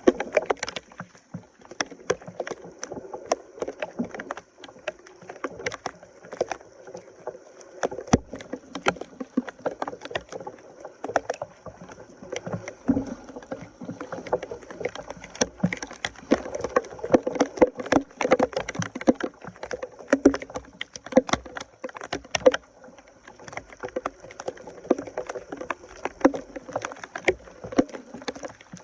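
Water splashing and sloshing as debris is worked loose from a clogged drain, with many irregular sharp knocks and clicks.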